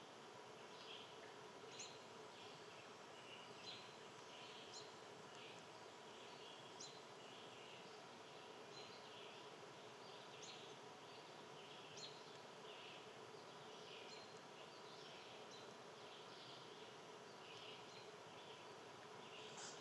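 Faint, scattered short chirps and sharp high chips of small birds, one every second or so, over a low steady outdoor hum.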